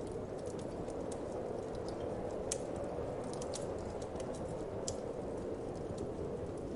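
Wood fire crackling with irregular small sharp pops, the two loudest about two and a half and five seconds in, over a steady low whoosh of wind.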